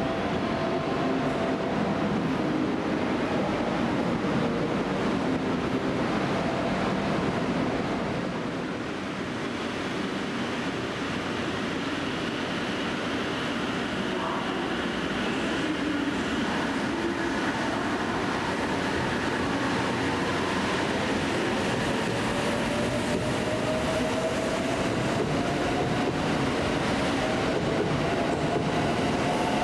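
A train running through the station with a steady rumble and hum. Over the last several seconds a whine rises slowly in pitch as the train gathers speed.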